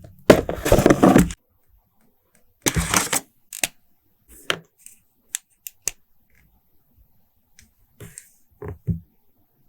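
Unboxing handling sounds: packaging crinkling in two short bursts, then scattered light clicks and taps, and a couple of soft thumps near the end.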